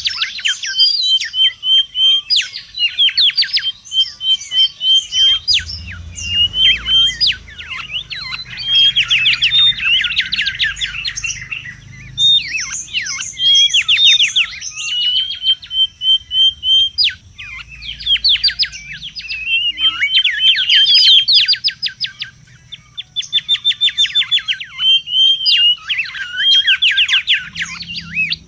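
Mangrove whistler singing without pause: loud phrases of rapid whistled notes and trills, one after another with short breaks between them.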